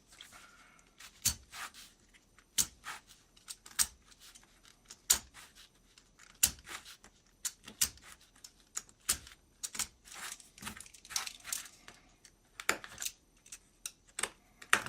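Craft knife paring and snapping away small sections of a thin model-kit pallet: irregular sharp clicks and small scrapes.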